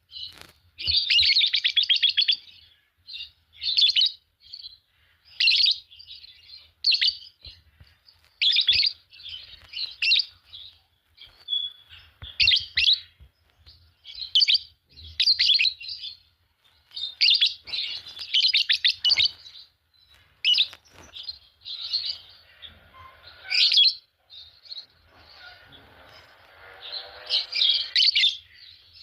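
A pair of Fischer's lovebirds chirping and chattering in short, high-pitched bursts every second or two, with a few longer bouts of rapid chatter.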